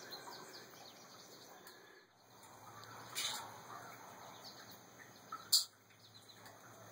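Faint bird chirping in the background, with two short, sharp hissing sounds about three seconds and five and a half seconds in.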